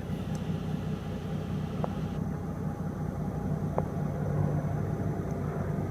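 Low, steady vehicle rumble, like background traffic, with two faint ticks about two and four seconds in.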